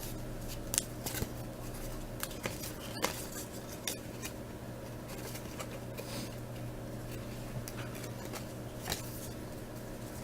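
Football trading cards being handled and flipped through one by one, making a scatter of light clicks and soft slides over a steady low hum.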